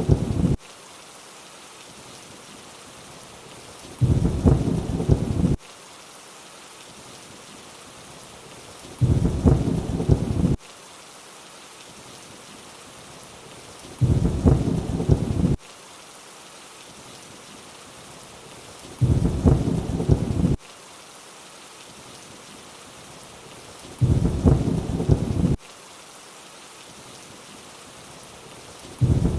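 Steady rain hiss with a low thunder rumble that comes back every five seconds, each about a second and a half long, starting and stopping abruptly like a loop.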